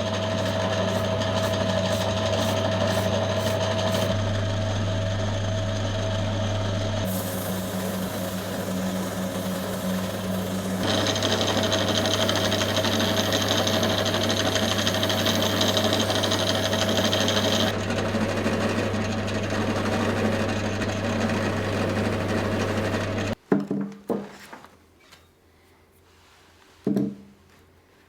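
An electric power tool's motor running steadily, its tone shifting a few times as it works, then cutting off suddenly. A few short metallic clinks follow.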